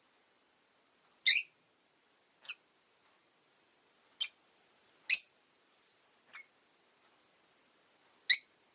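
Rosy-faced lovebirds giving short, sharp, high chirps, six single calls spaced a second or so apart with quiet between. The three at about one, five and eight seconds in are loud, and the others are faint.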